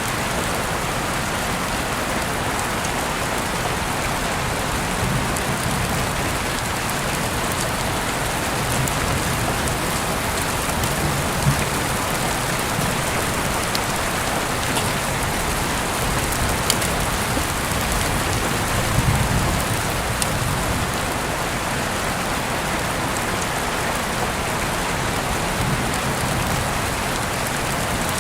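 Steady rain falling, a constant hiss with a few brief sharp ticks of drops scattered through it.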